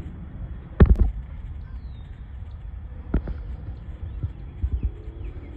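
Steady low outdoor rumble with a few dull thumps, the loudest a close pair about a second in and more around the middle and near the end.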